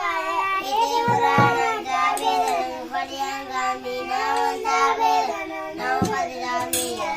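Children singing, one continuous sung passage without a break.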